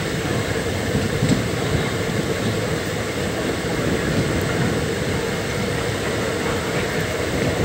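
Andaman Express passenger train running, heard from on board: a steady rumble of coach wheels on the track with an even level throughout.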